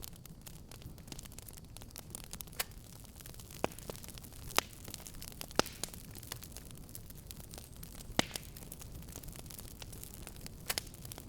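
Fire burning in a fireplace, crackling steadily over a low rumble, with a few louder sharp pops: the loudest come about four and a half, five and a half and eight seconds in, with a quick pair near the end.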